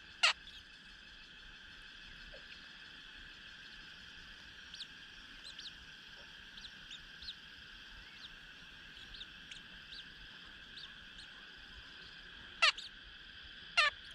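Birds calling: scattered short, high chirps over a steady high-pitched drone, with three loud, sharply falling calls, one near the start and two near the end.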